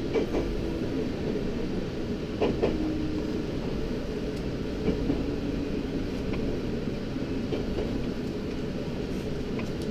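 A train running, heard from inside the carriage: a steady low rumble with a few brief knocks.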